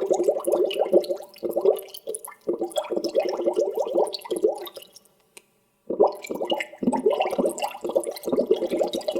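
Water bubbling in dense, rapid gurgling runs of bubbles, breaking off briefly about two seconds in and falling silent for about a second near the middle before starting again.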